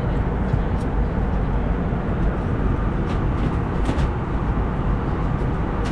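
Steady cabin noise of an Airbus A320neo at cruise around 35,000 feet: an even rushing roar of airflow and engines, with a few faint clicks about three to four seconds in.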